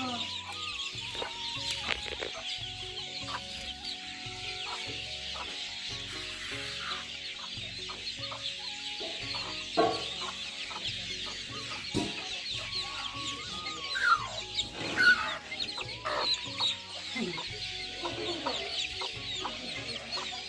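Domestic chickens clucking as they go into their coop, over a steady dense chorus of many small birds chirping. There are a few louder calls between about 10 and 17 seconds in.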